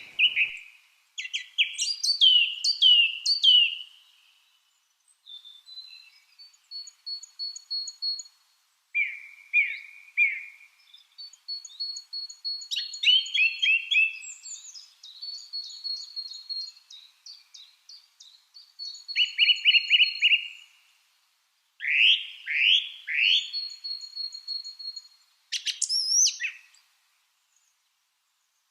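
Lovebirds chirping in quick bursts of sharp, falling squeaks, mixed with thin, rapid high ticking calls, with short silent gaps between the bursts.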